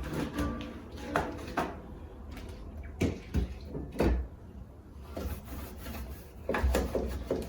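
Irregular knocks and clatter as items, shelves and drawers are handled while a refrigerator is cleared out and wiped down, with a low steady hum underneath.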